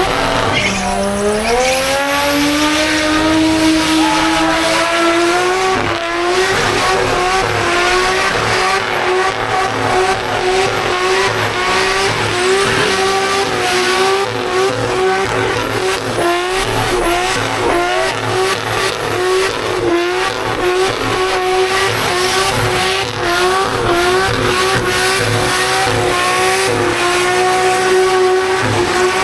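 Car engine revved up hard and then held at high revs through a long burnout, with small repeated dips in pitch. The spinning tyres squeal and hiss against the pad throughout.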